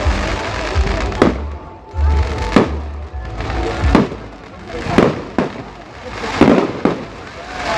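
Fireworks bursting, a string of about eight sharp bangs roughly a second apart, some followed by crackling, over background music.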